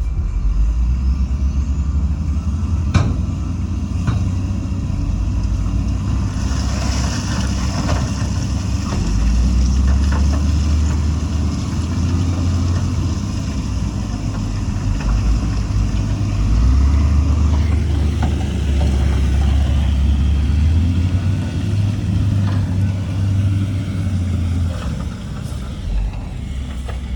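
Heavy diesel earthmoving machinery working, its engine's low rumble rising and falling with the load. There is a sharp knock about three seconds in, and a high hiss from about six to seventeen seconds.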